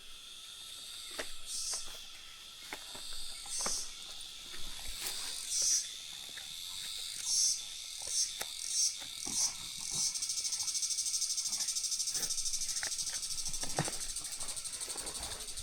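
Insects trilling steadily and high, with short hisses and faint clicks every second or so; about ten seconds in, a faster, evenly pulsing trill takes over.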